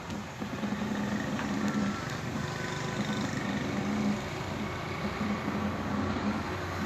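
Faulty CRT television giving a rough, steady noise through its speaker, with a humming layer that pulses on and off unevenly. Along with a blinking LED, the noise is the sign of the set's fault.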